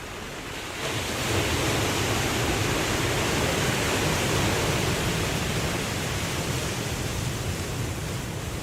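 Ocean waves: a steady rush of surf that swells about a second in and then slowly eases off.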